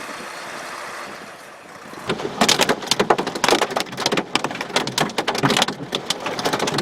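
Steady road noise inside a moving car. About two seconds in, heavy rain starts pelting the roof and windshield in dense, irregular hits.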